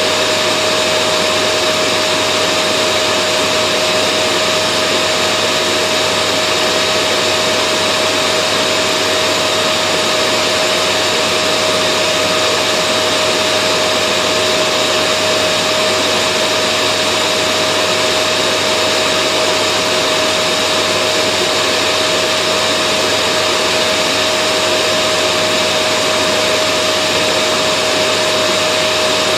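Vacuum cleaner motor running steadily, a constant rushing noise with a steady whine on top that never changes. Played continuously as white noise to soothe babies to sleep.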